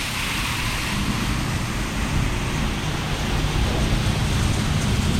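Grain-handling equipment running steadily as soybeans are augered up the leg and poured into a grain bin: a continuous hiss over a low mechanical hum that firms up about a second in.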